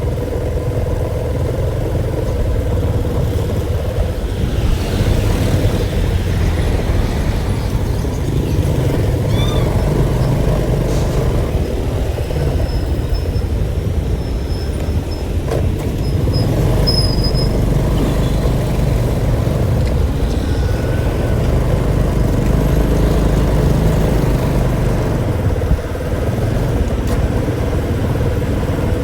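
A road vehicle running steadily while moving, with continuous low engine and road rumble that holds at an even level.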